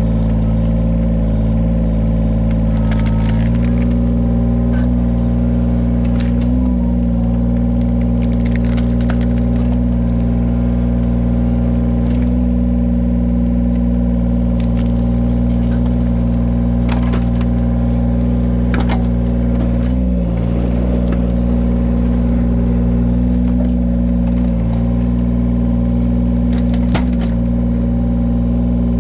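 Engine of a hydraulic firewood-splitting machine running steadily under load, its note shifting slightly about three and a half seconds in, with scattered sharp cracks and knocks of logs being cut and split.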